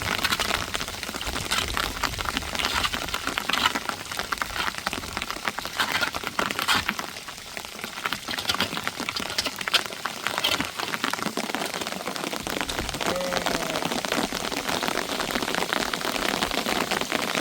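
Heavy storm rain falling, a dense steady patter of drops with sharper individual hits standing out here and there.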